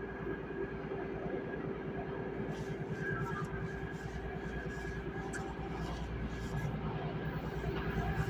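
Metro-North express train approaching from a distance: a steady rumble that grows gradually louder.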